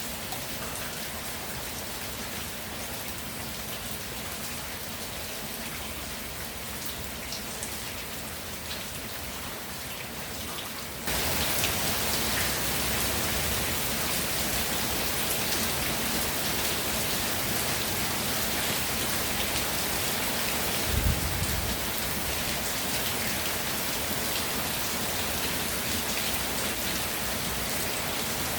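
Steady rainfall, an even hiss of drops that turns abruptly louder about a third of the way through. A single brief low thump comes about two-thirds of the way in.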